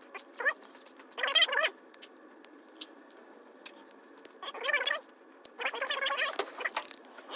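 Several short bursts of scraping and rustling, about four of them with a longer one near the end, from hands handling small engine parts.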